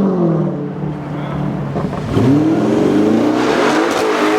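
Straight-piped Audi RS7 twin-turbo V8 exhaust. The revs fall off, then about two seconds in the engine revs up again and accelerates, the note climbing and getting louder until near the end.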